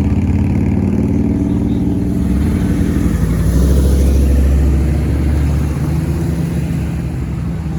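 Muscle car engine running loudly, its pitch shifting about three seconds in, loudest a second later, then easing off toward the end.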